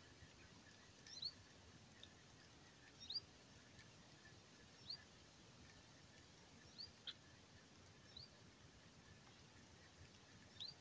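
A small bird calling: short, high, upward-flicking chirps repeated about every one and a half to two seconds over a faint outdoor hiss.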